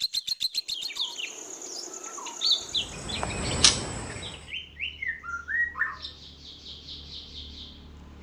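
White-rumped shama of the golden colour form singing: short whistled phrases that glide up and down, with a rapid trill about six seconds in. A sharp click a little after three seconds in is the loudest moment.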